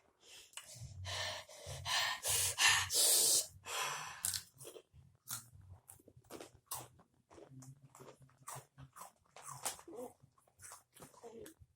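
Crunchy rolled tortilla chips (Takis) being chewed close to the microphone, with heavy, noisy breaths through the mouth over the first few seconds, then a run of sharp crunching clicks.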